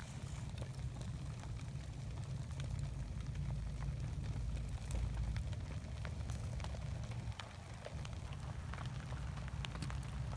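Newly lit campfire of tinder under teepee-stacked firewood crackling, with scattered sharp pops over a steady low rumble.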